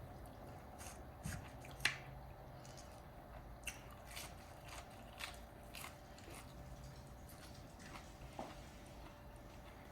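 A person chewing a mouthful of wood-fire-grilled meat with a crisp outside, making small irregular crunchy clicks, the loudest about two seconds in, over a faint steady hum.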